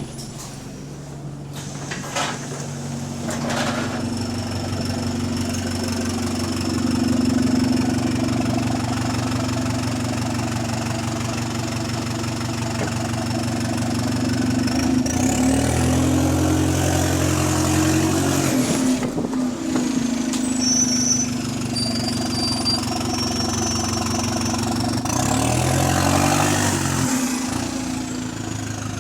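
Alexander Dennis Enviro200 single-deck bus engine running with an exhaust leak. The engine note rises and falls twice as the bus pulls away, about halfway through and again near the end, with a high whine rising and falling along with it.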